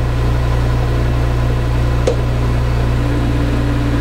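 Metal lathe running with a steady low motor hum while a boring bar takes a pass in a blind bore. A single sharp tick comes about halfway, and a steady higher hum joins near the end.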